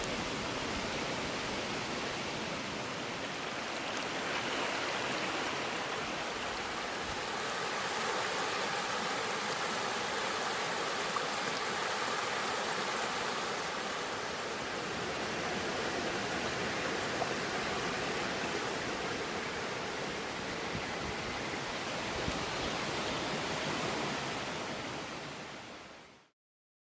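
River water rushing steadily, with a few faint pops from the campfire, fading out near the end.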